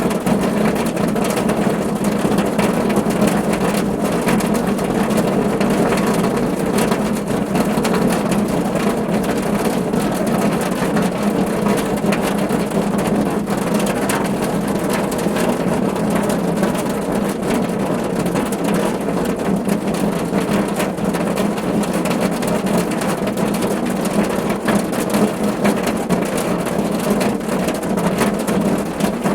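Rain falling on a car's roof: a dense, steady patter of drops that never lets up.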